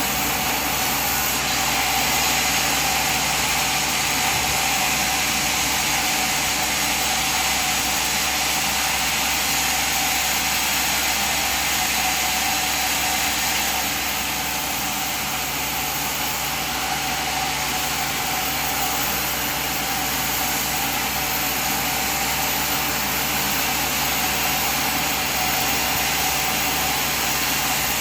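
Sawmill machine running steadily: a continuous, even mechanical drone that holds at one level, with no sudden knocks.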